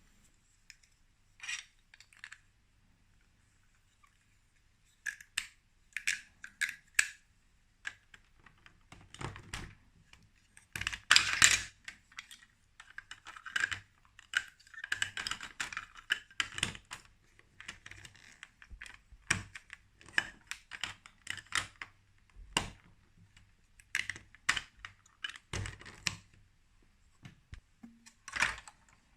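Hard plastic toy pieces clicking and clattering as they are handled and fitted together, in irregular bursts with quiet gaps and a louder clatter about eleven seconds in.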